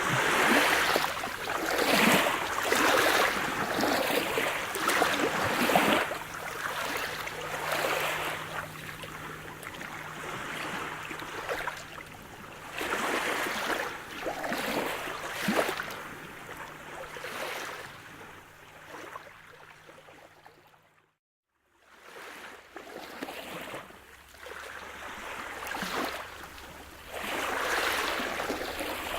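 Sea surf: waves wash in and draw back in repeated swells of noise, with a faint steady low hum underneath. About 21 seconds in, the sound cuts out to silence for about a second, then resumes.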